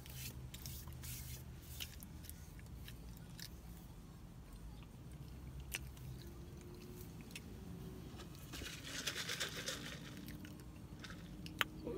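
Close-up mouth sounds of someone chewing a mouthful of chicken biscuit, with small wet smacking clicks. About eight and a half seconds in comes a sip through a straw, about a second and a half long, and a sharp click near the end.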